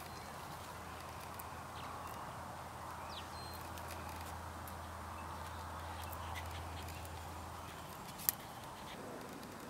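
A few thin, high, short chirps from a New Zealand fantail flitting in a shrub, over a faint steady outdoor background and a low hum that stops about eight seconds in. A single sharp click near the end is the loudest sound.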